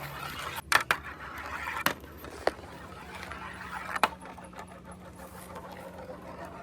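Marbles rolling along a marble run track: a continuous rolling rumble broken by sharp clacks as they knock against the course, four of them standing out within the first four seconds.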